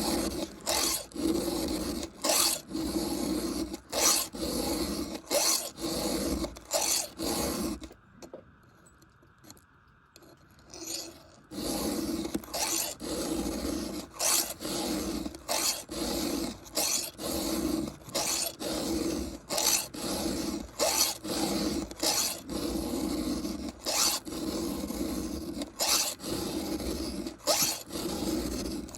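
Chainsaw chain cutter being hand-filed with a round file, in quick even strokes about two a second, with a break of a few seconds near a third of the way in. The file is taking a lot of metal off to straighten a badly misshapen tooth.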